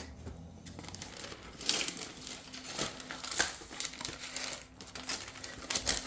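Crinkling, rustling and tearing of paper and packaging as a stuck receipt is picked and peeled off a model railway car's box. The handling comes in irregular scratchy strokes, busier after about two seconds.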